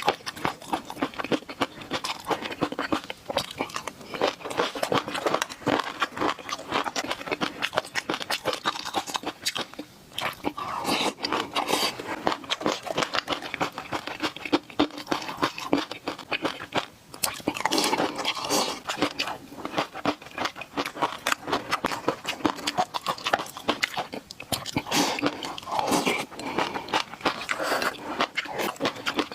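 Close-miked eating sounds of a person chewing fish roe sauce: continuous chewing and biting with many quick, irregular mouth clicks.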